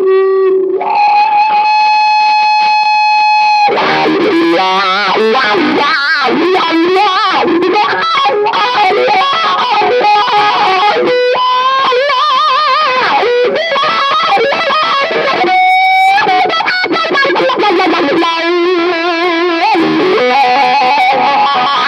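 Electric guitar played through the M'Amps pocket power amp, which has an EF95 mini pentode tube stage and a Class D output, with some distortion and effects. It plays a melodic lead line of held notes, several with vibrato, including a long steady note near the start and a high note about sixteen seconds in.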